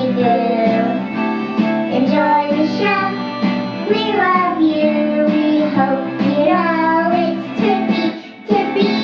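A children's song: a sung melody over steady instrumental accompaniment, with a short break near the end.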